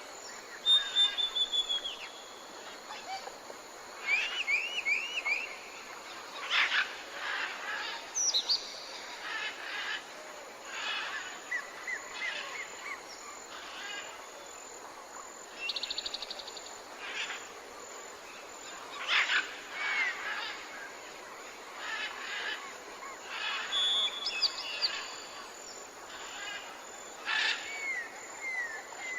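Several songbirds calling back and forth with short whistled notes, quick up-and-down slurred chirps and a brief rapid trill, a call every second or two, over a steady faint hiss.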